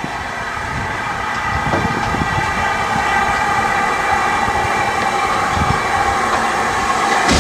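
Train noise at a station: a steady drone of several tones together that grows slightly louder, with wind buffeting the microphone.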